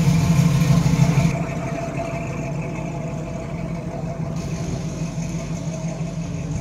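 First-generation Chevrolet Camaro's engine running at low speed as the car drives off, its exhaust note loudest for the first second or so and then steadier and quieter as it pulls away.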